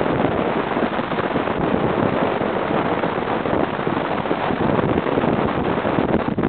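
Wind noise from a 1930 Model A Ford being driven on the road: a steady rushing noise that does not let up.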